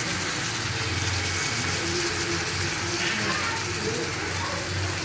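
Steady sizzling hiss of onions, green chillies and chana dal frying in oil in a kadai over a low gas flame, with a low hum underneath.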